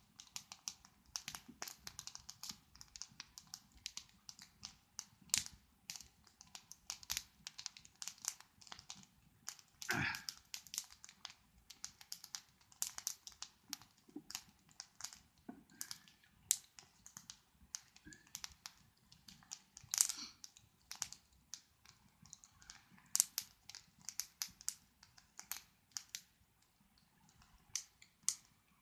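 Wood campfire burning and crackling, with irregular small snaps and a few louder pops.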